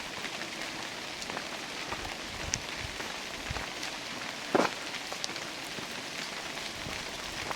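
Steady rain falling in a redwood forest, with scattered heavy drops landing close by; the loudest drop hits a little past halfway.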